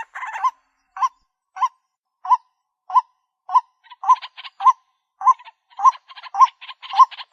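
White-breasted waterhen calling: a string of short, evenly spaced notes, a little under two a second. About halfway through, a busier, harsher chatter of notes joins in.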